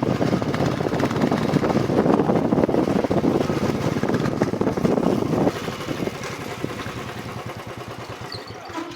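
Royal Enfield Bullet Classic 350's single-cylinder engine running loud for about five seconds, then dropping suddenly and fading away.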